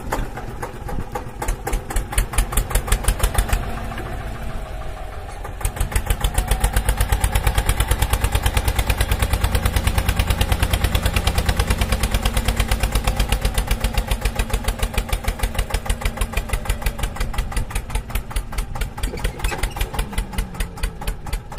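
An engine running with a rapid, even chugging beat, louder from about six seconds in and easing off near the end.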